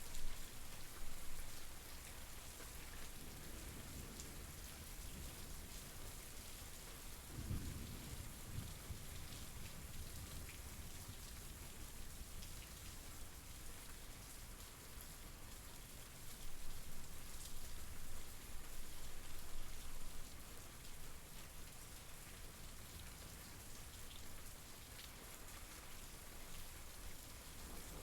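Steady rain falling, with a low rumble of thunder about seven seconds in.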